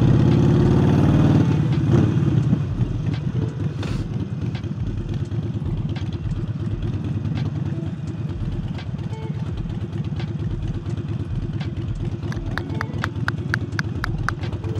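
Harley-Davidson Forty-Eight's air-cooled V-twin, fitted with a new aftermarket air intake, running loud under throttle for about two seconds, then dropping back to a lower, uneven lumpy beat as the bike rolls along. A run of quick ticks comes near the end.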